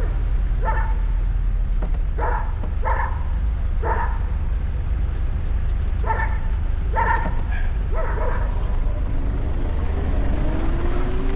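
A dog barking about seven times in short, separate barks, over steady low wind and road rumble. Near the end a rising whine comes in.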